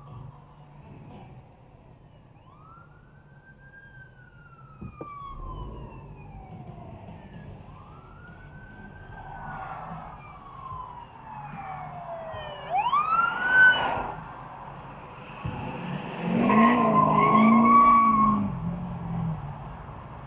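Police car siren wailing in slow rising and falling sweeps, then switching to a quick, sharp rising sweep, over low road rumble. Near the end, a louder steady-pitched blast lasts about three seconds.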